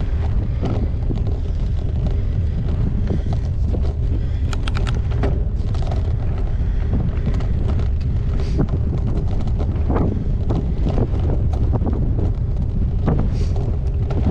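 Wind buffeting the microphone of a GoPro Hero8 on a moving gravel bike, a steady low rumble, with frequent short clicks and rattles from the bike as it rides over rough ground.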